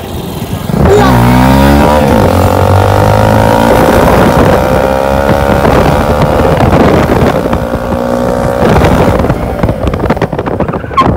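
Hero Splendor motorcycle's single-cylinder four-stroke engine under way: about a second in it revs up sharply, then pulls at a steady, slowly rising pitch as the bike accelerates. Over the last few seconds the sound turns rougher and noisier.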